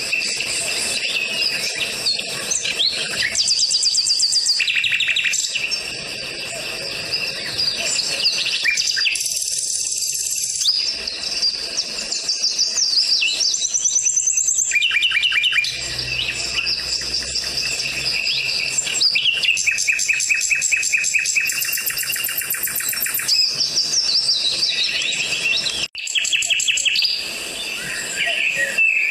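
Songbirds singing: a busy run of fast trills and repeated high chirps, one phrase after another at varying pitches, with a brief break about three-quarters of the way through.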